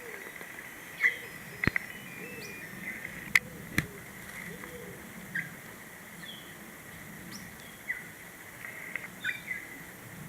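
Birds giving short chirps and calls every second or two over a steady high-pitched tone, with a few sharp clicks in the first four seconds.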